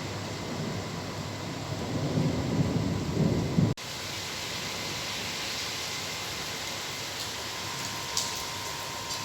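Thunderstorm: rain falling with a deep rumble of thunder that builds over the first few seconds and then cuts off suddenly. After that comes a steady rain hiss, with a sharp tick near the end.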